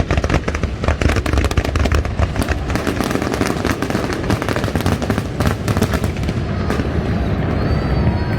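Fireworks going off in quick succession: a dense run of bangs and crackles that thins out after about six seconds.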